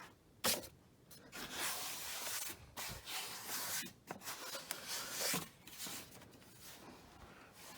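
Plastic dust cup of a Hoover bagless upright vacuum being handled: a sharp click about half a second in, then several stretches of rubbing and scraping against plastic.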